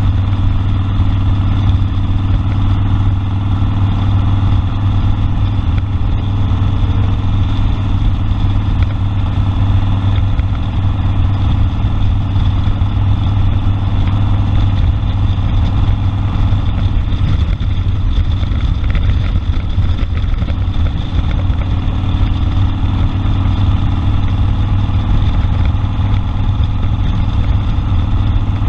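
Harley-Davidson Sportster Custom 1200's air-cooled V-twin engine running steadily, its pitch holding nearly even.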